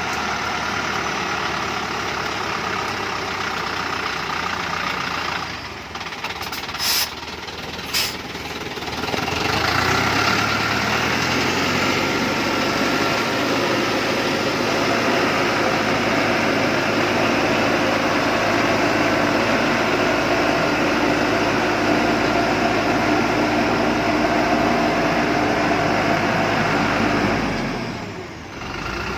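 Dongfeng truck's diesel engine running, easing off about five seconds in, with two short sharp sounds a second apart, then pulling under load at higher revs, held steady for most of the time before dropping away near the end.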